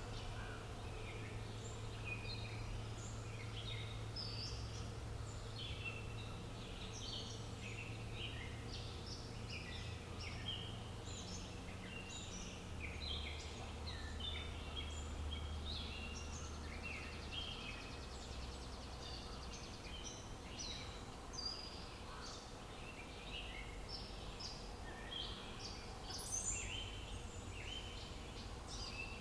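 A chorus of many birds chirping and trilling in quick, overlapping short notes, over a steady low rumble of outdoor background noise.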